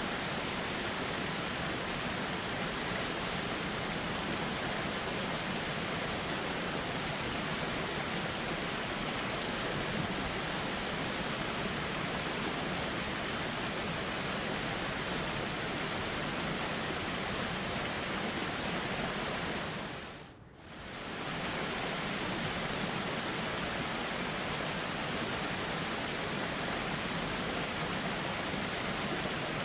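Steady rushing of flowing river water. The sound dips briefly about two-thirds of the way through and comes straight back.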